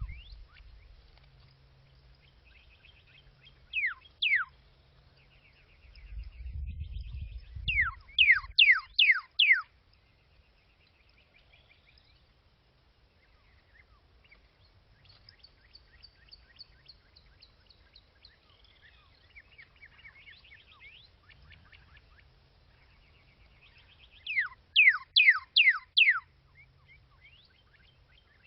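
Bird calls: loud whistled notes that fall sharply in pitch, in quick runs of two about four seconds in, five around eight to nine seconds, and five more near the end. Fainter twittering and trills carry on between them, with a low rumble for a couple of seconds before the second run.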